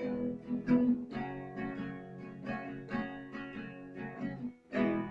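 Acoustic guitar strumming chords as the song's closing instrumental, with a final strong strum about five seconds in left to ring.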